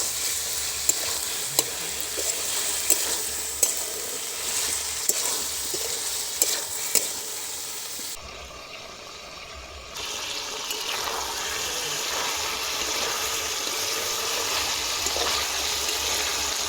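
Chicken liver and potato pieces sizzling in mustard oil in a pan, stirred with a spatula that knocks and scrapes against the pan in sharp ticks. About eight seconds in the sizzle drops away for a couple of seconds, then goes on steadily.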